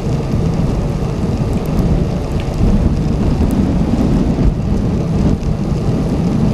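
Steady wind rumble on a bike-mounted action camera's microphone while riding through sleet and rain, with a few faint ticks.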